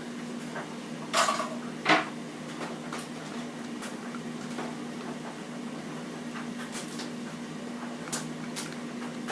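A straw stirring and knocking against a container as nail varnish is mixed into oil: two louder knocks about a second and two seconds in, then scattered light taps. A steady low hum runs underneath.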